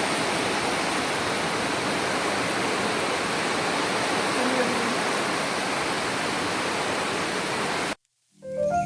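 Steady downpour of heavy rain, an even hiss that cuts off suddenly about eight seconds in. Light mallet-percussion music starts just at the end.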